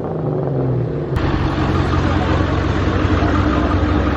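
Car engine idling steadily, and about a second in a louder, rougher engine sound takes over and holds steady.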